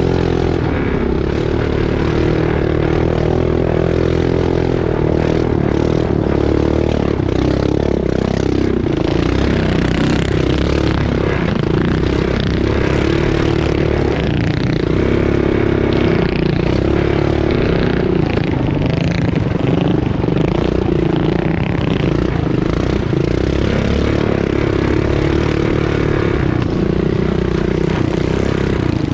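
Pull-start mini bike small engine running hard under throttle, with clattering and scraping from the bike over rough dirt.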